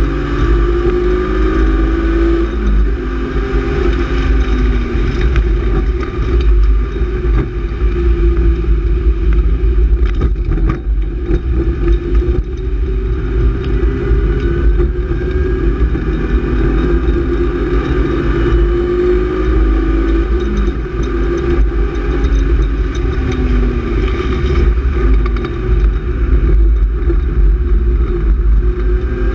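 BMW E36 328is's straight-six engine heard from inside the cabin under track driving. Its note climbs and falls again and again as the car accelerates, shifts and lifts, over a steady low rumble.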